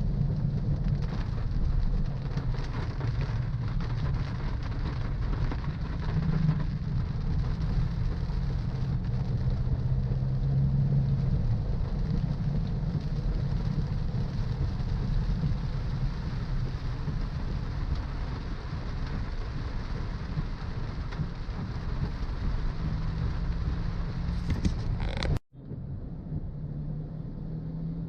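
Car driving in the rain: steady low road and engine rumble with rain hiss. The sound cuts out abruptly about 25 seconds in and comes back as a quieter, thinner rumble.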